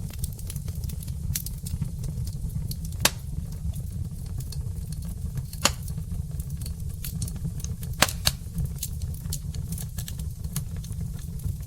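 Wood fire burning in a fireplace, crackling with many small ticks and a few sharp pops, the loudest about three, five and a half and eight seconds in, over a steady low rumble.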